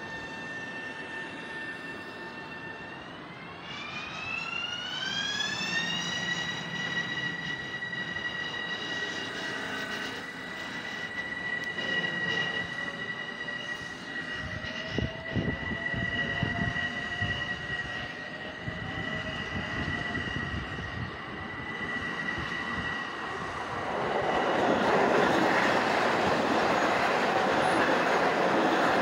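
Long Island Rail Road electric commuter train pulling out of the station. A high electric whine glides up in pitch a few seconds in and then holds, while a lower tone rises slowly as the train gathers speed, with knocks of wheels over the track midway. Near the end a louder rushing of wheels and cars going past takes over.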